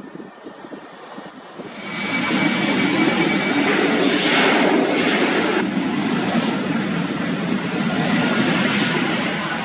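Jet airliner passing close by, its engine noise swelling up about two seconds in. A high, steady fan whine sits over the rumble and drops away about halfway through, while the rumble carries on.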